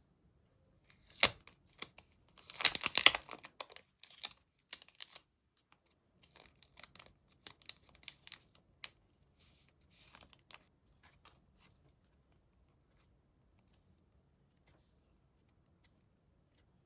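A trading-card pack wrapper being torn open by hand: a sharp rip about a second in, a longer tear a little later, then crinkling of the wrapper and light rustles and ticks as the cards are handled. The sounds thin out and stop about two-thirds of the way through.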